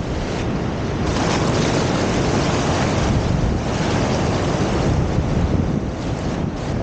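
Surf breaking on a beach, mixed with strong wind buffeting the microphone in a steady low rumble that swells about a second in.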